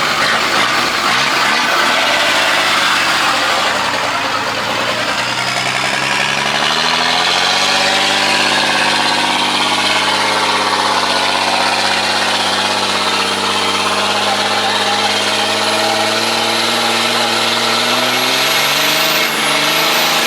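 Car engine running close by, its pitch shifting for the first few seconds and then settling into a steady idle.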